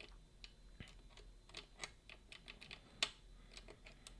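Irregular small metallic clicks and ticks of lock-picking tools working the levers of a Boda 429 eight-lever lever deadbolt, with one sharper click about three seconds in.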